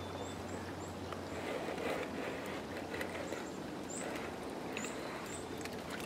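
Small bird chirping repeatedly, short high-pitched notes each dropping slightly in pitch, about one or two a second. Faint knocks and rustles of the wooden birdhouse roof being handled and lifted off.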